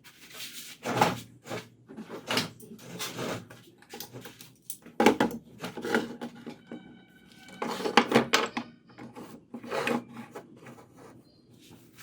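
Irregular scraping and knocking of hard parts being handled and worked, a stroke every second or two, with a brief high steady tone a little past the middle.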